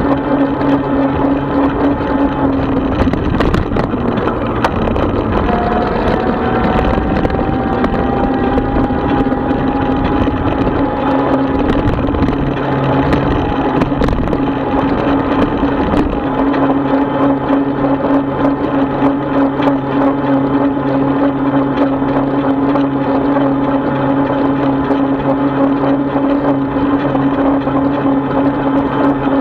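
A 36-volt electric bike's motor running with a steady whine over wind and tyre noise while riding. A higher tone rises slowly between about five and sixteen seconds in.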